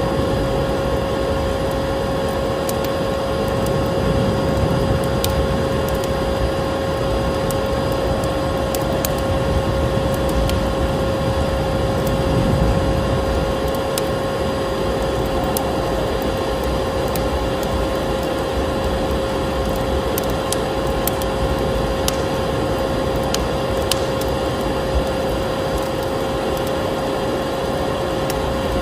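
Vacuum cleaner running steadily with a constant whine, over the scattered crackles and pops of a wood fire burning in a fireplace.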